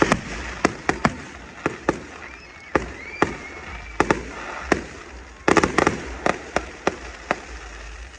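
Aerial fireworks going off: an irregular string of sharp bangs, with a rapid cluster of them about two thirds of the way through.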